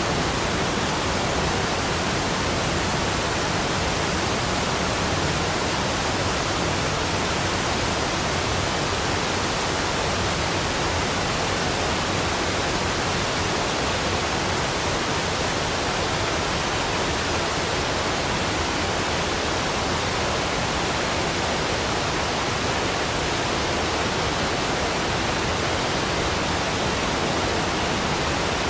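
Rushing waterfall: a steady, even wash of falling water that does not change in level.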